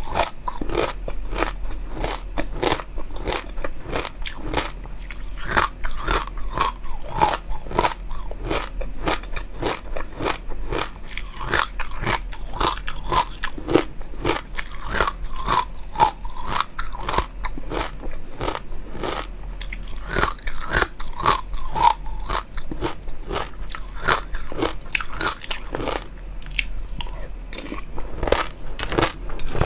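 Close-miked eating sounds: steady chewing and biting with a dense run of crunchy, crackly clicks.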